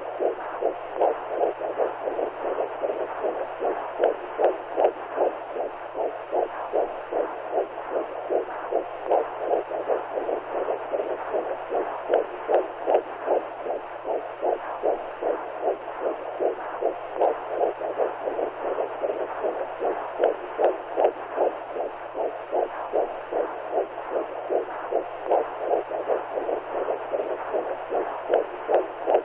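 Womb sound for soothing newborns: rhythmic whooshing pulses, about two a second, like a heartbeat and blood flow heard from inside the womb, over a steady low hum.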